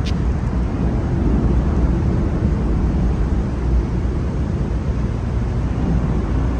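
Twin-turbo LS3 V8 of a 1971 Chevelle restomod idling with a steady low rumble.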